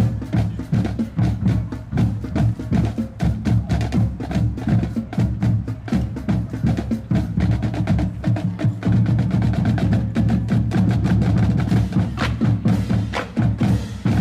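A band's drums playing loud, rapid percussion: fast, dense drum strokes over a low drum beat, with no other instruments standing out.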